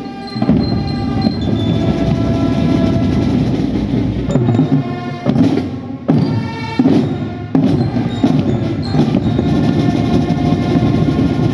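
Drum band playing: brass holding sustained notes over drums, with a run of heavy drum strokes about four to eight seconds in.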